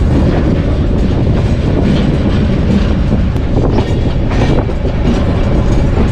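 Banalata Express passenger train running at speed: a steady heavy rumble with scattered wheel clacks over the rail joints.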